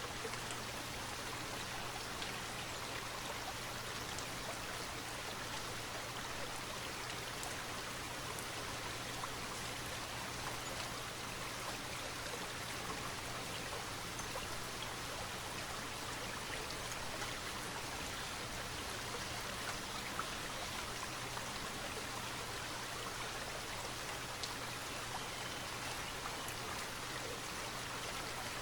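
Steady flowing river water over rocks, with light rain falling and scattered small drop ticks.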